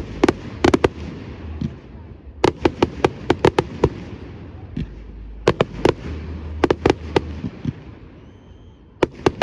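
Fireworks display: clusters of sharp bangs and crackles from bursting shells, several in quick succession about 2.5 to 3.7 s in and again around 5.5 s, 6.7 s and 9 s, over a low rumble. A faint high whistle is heard just before the last cluster.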